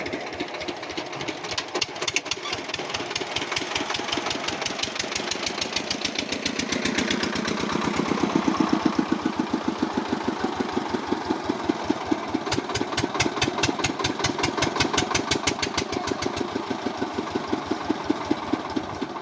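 Engine running steadily with a rapid, even firing beat, a little louder about eight seconds in.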